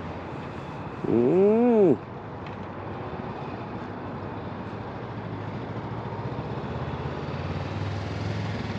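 Motorcycle engine running with a steady low rumble, given one quick blip of the throttle about a second in, the pitch rising and falling back.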